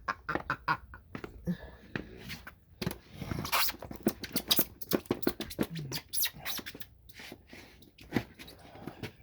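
Footsteps in snow: a run of irregular crunches and scuffs.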